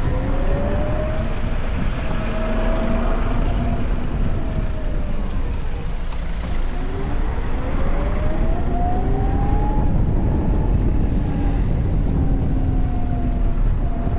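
Electric motorcycle's motor whining, rising in pitch as it speeds up and falling as it slows, twice over. Under it runs a steady low rumble of wind and road noise.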